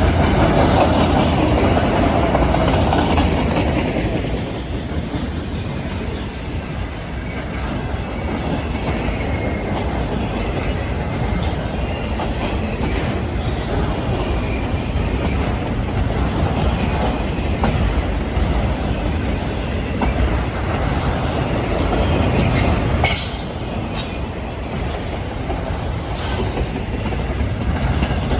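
Freight train passing close by: a steady heavy rumble of wheels on rail with clicking over the joints, and short high wheel squeals now and then.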